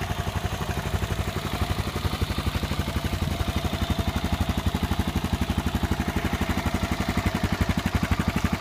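Honda XR400 single-cylinder four-stroke engine idling through a Delta slip-on muffler: a steady, even beat of rapid exhaust pulses.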